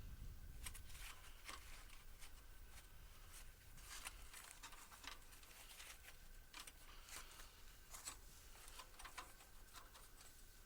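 Near silence with faint, irregular light clicks, taps and rustles, the handling noise of a band saw blade being set onto the sawmill's wheels.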